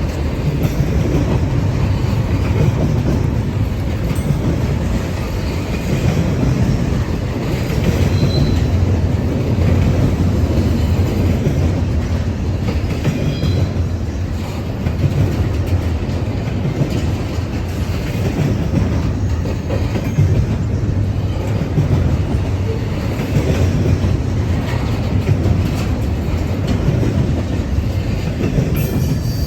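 Norfolk Southern freight train rolling past: a steady, loud rumble of steel wheels on rail with clickety-clack over the rail joints. A few faint, brief wheel squeals come partway through.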